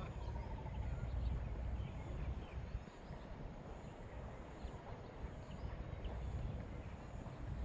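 Outdoor background noise at a ballfield: a low, fluctuating rumble under a steady hiss, with a few faint short chirps higher up.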